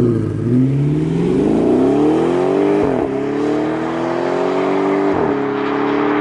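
Car engine accelerating hard away: the revs climb, drop at an upshift about three seconds in, climb again, and drop at a second upshift about five seconds in.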